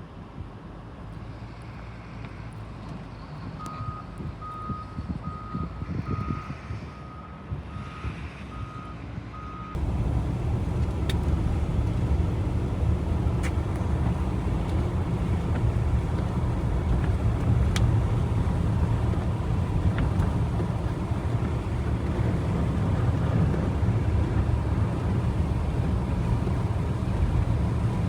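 A vehicle's reversing alarm beeping evenly, about ten beeps over six seconds, over a low engine rumble. About ten seconds in, the sound jumps suddenly to a louder, steady low engine rumble that continues.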